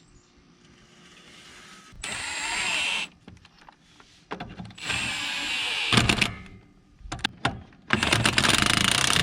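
Power impact wrench run in short bursts of about a second, spinning lug nuts off a wheel of a 1966 Chevy C30 truck.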